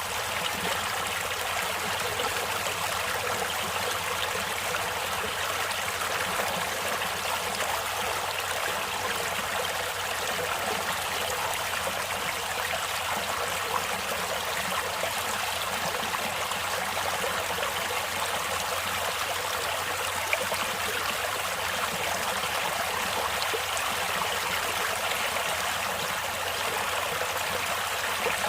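Stream water flowing and trickling over rocks, a steady rush with an occasional brighter splash.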